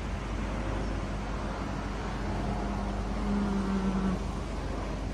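A steady low engine hum over even outdoor rushing noise; the hum swells about three seconds in and cuts off suddenly about a second later.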